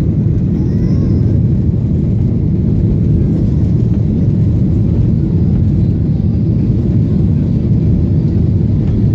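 Steady low rumble of an airliner climbing after takeoff, even and unbroken throughout.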